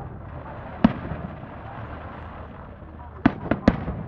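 Aerial fireworks shells bursting: one sharp bang about a second in, then three bangs in quick succession near the end.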